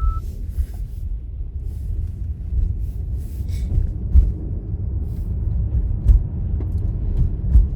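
Low, steady rumble of a car driving, heard from inside the cabin, with a few brief knocks and bumps from the road. A repeating electronic beep stops right at the start.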